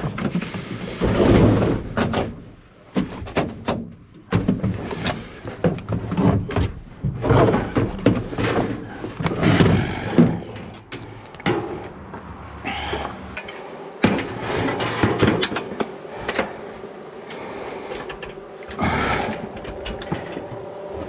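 Irregular knocks, thuds and rustling of hands-on work, some of them loud.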